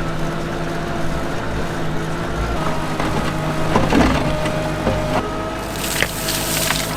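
Old Bobcat skid-steer loader's engine running steadily, with a higher whine joining for a couple of seconds from about the middle and a few knocks and clatters about four seconds in. A hissing rush comes in near the end.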